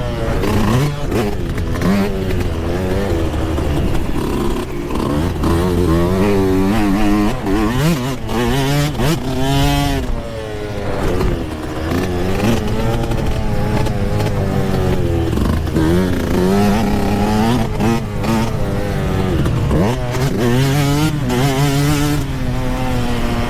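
Yamaha YZ125 125cc two-stroke single-cylinder dirt bike engine being ridden hard. The pitch climbs under throttle and drops sharply when the throttle is chopped, several times over.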